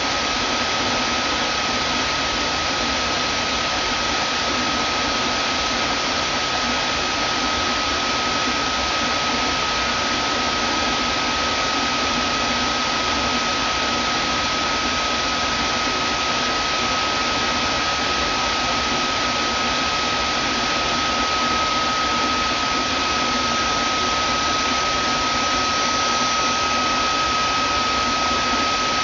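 Vacuum cleaner running steadily: an even rush of air noise with a constant high whine.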